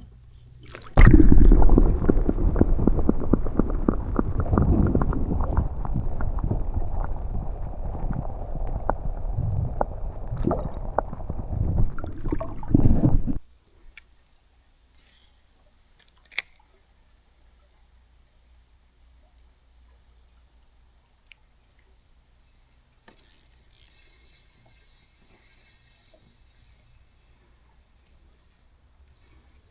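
Loud, muffled rumbling and crackling water noise for about twelve seconds, typical of the camera microphone dipped underwater. It cuts off suddenly, and crickets go on with a steady high buzz, with a few faint clicks.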